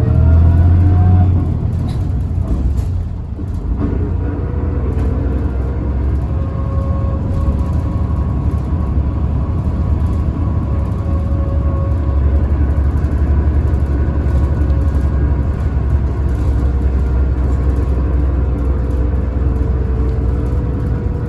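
Inside a city bus cabin: the bus's drive rumbles while a whine climbs in pitch over the first second or so, then holds a steady tone as it cruises. The whine is the abnormal motor noise this bus, Tokyu Bus H854, is known for.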